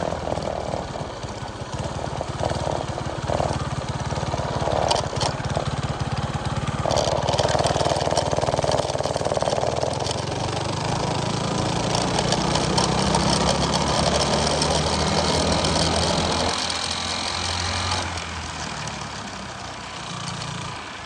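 Minibike's four-stroke engine, fitted with a hot cam and stiffer valve springs, running under throttle while ridden. It climbs in pitch about a third of the way in, holds high, then drops back off near the end as the throttle closes.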